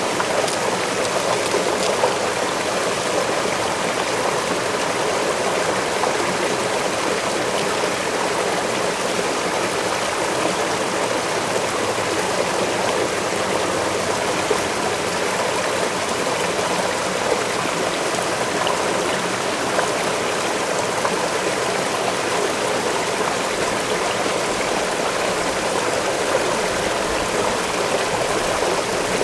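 Waterfall and the water below it rushing steadily, an even, unbroken roar of falling and flowing water.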